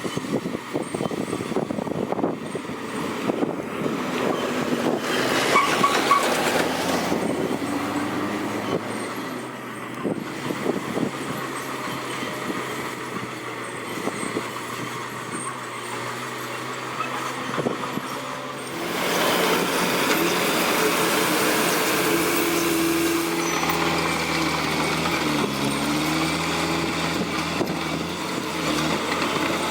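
Komatsu D41P crawler bulldozer's diesel engine running, with its steel tracks clanking and rattling over the first several seconds. About two thirds of the way in the engine goes up sharply in loudness and pitch and holds there under load, its tone sagging and recovering as it works.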